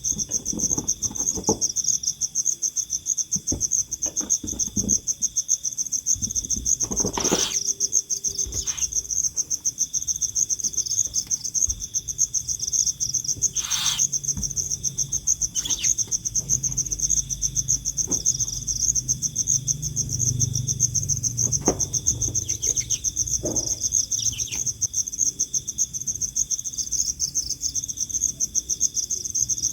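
Insects chirping steadily in a fast, continuous pulse, with a few sharp knocks about seven and fourteen seconds in.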